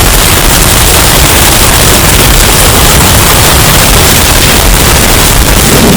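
Hurricane wind sound effect, bass-boosted and heavily distorted: a steady, very loud wall of wind noise with a heavy low end.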